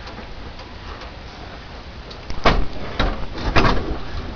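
Floor jack carrying a VW engine being pushed along on wooden boards. About halfway in come a run of sharp knocks and clunks, about five in under two seconds.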